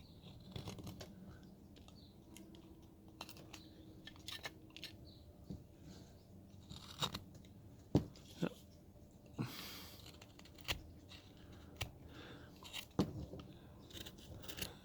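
A hand carving blade cuts into hard wood with the consistency of maple, making faint, irregular crisp cuts and scrapes. A longer scraping cut comes about ten seconds in.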